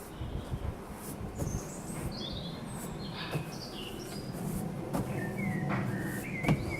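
Small birds chirping and calling, with a low steady rumble of a distant airliner underneath. A few sharp clicks, the loudest near the end.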